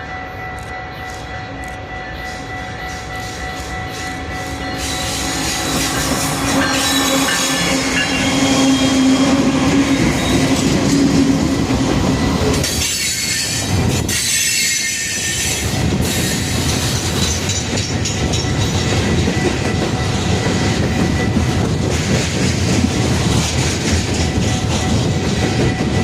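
Diesel locomotives on a loaded coal train come closer and go by about halfway through. The coal hoppers then roll past in a steady rumble with clickety-clack and squealing wheels.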